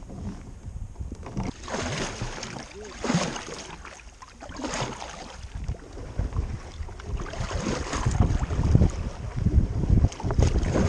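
Wind buffeting the microphone out on a river kayak, a low rumble that gets stronger in the second half, with a few water swishes in the first half.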